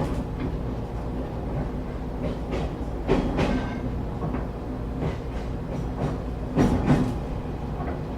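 Interior of a moving passenger train: a steady low running rumble, with sharp clacks in pairs as the wheels pass over rail joints, about three seconds apart.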